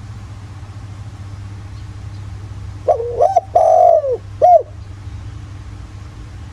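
Spotted dove cooing: one phrase about three seconds in, a few short notes, one longer held note and a short final note, over a low steady hum.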